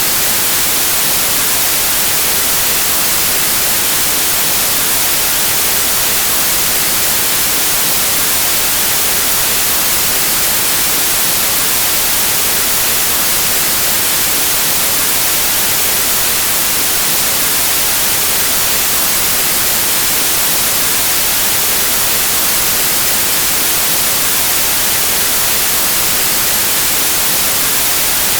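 Steady white noise: a constant, even hiss with no change or events, weighted toward the high end.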